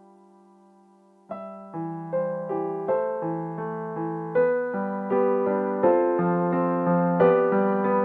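Solo piano playing. A held chord fades almost away, then a little over a second in a new phrase begins. Notes are struck about two or three times a second and left ringing over one another, growing louder through the phrase.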